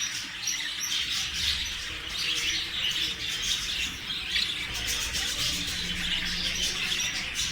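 A colony of budgerigars chirping and chattering together: a continuous twitter of many short, high calls overlapping one another.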